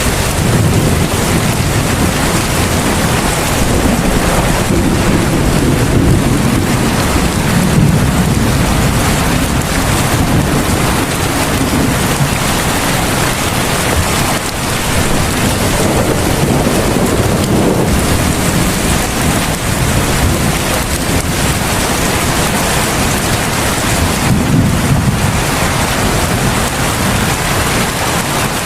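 Heavy rain falling steadily, with deep low rumbles that swell and fade a few times.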